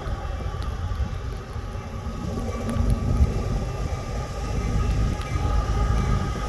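Union Pacific intermodal freight train running on the line, a continuous low rumble that grows louder through the second half, with a steady high tone running through it.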